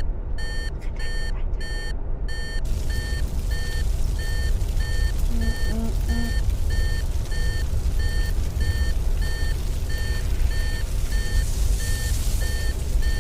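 Electronic warning alarm beeping steadily, about two beeps a second, over a low steady engine rumble: an aircraft-emergency sound effect signalling engine failure.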